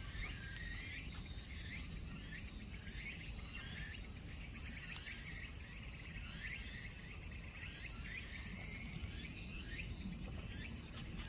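Steady, dense high-pitched chorus of insects, with short chirps repeating over it and a low rumble underneath.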